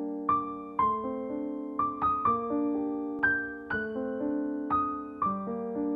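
Background piano music: gentle notes struck about twice a second, each ringing on and fading.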